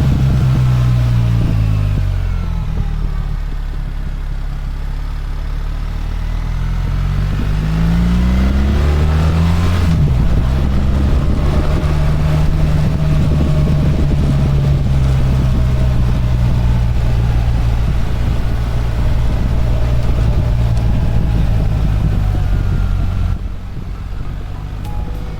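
BMW R1300 GS boxer-twin engine running under way, with wind noise. The engine note falls as the bike slows, then climbs with the revs and changes pitch suddenly about ten seconds in. It holds steady before easing off near the end.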